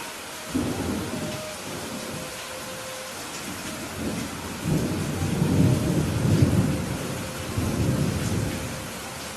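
Steady rain with thunder. A low rumble starts suddenly about half a second in and fades, then a longer, louder rumble comes about halfway through, with a last swell before it dies away near the end.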